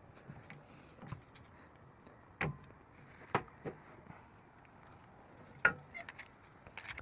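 Hand tools clinking on metal pipe fittings: scattered sharp metallic clicks and knocks, a few of them louder, as a tight threaded fitting on an air compressor outlet is worked loose with a wrench.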